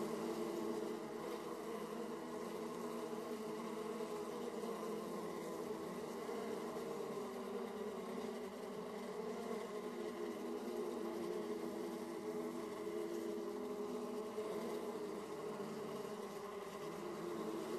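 A colony of honeybees buzzing at the hive entrance: a steady, dense hum of many bees flying in and out at once, their wingbeats overlapping at slightly different pitches.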